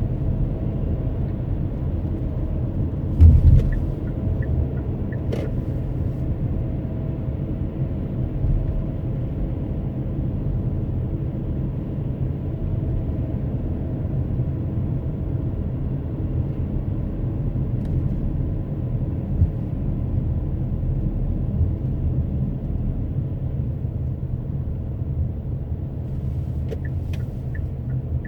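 A car driving, with a steady low rumble of tyres and engine heard from inside the cabin. One louder thump comes about three seconds in.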